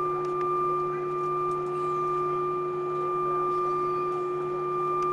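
Steady cabin noise inside an Airbus A320 on the ground after landing: an even, high-pitched whine over a lower hum, from the aircraft's engines and air systems, with no change in pitch.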